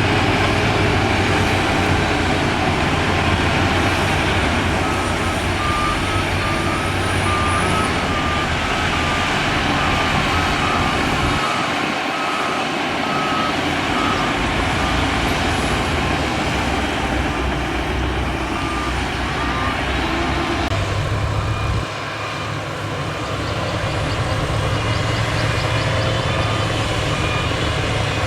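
Heavy diesel earthmoving machinery running steadily, with a reversing alarm beeping at an even rhythm through much of it.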